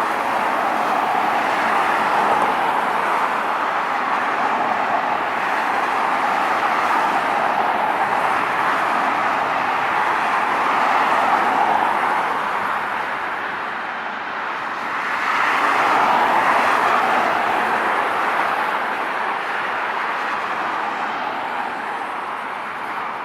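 Boeing 777's General Electric GE90 turbofan engines running at high thrust: a loud, steady jet roar that swells about two-thirds of the way through and eases off slightly near the end.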